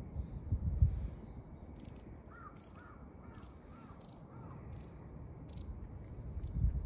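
A bird calling in a quick series of about seven short calls, a little more than one a second. Underneath is a low wind rumble on the microphone, gusting at the start and again near the end.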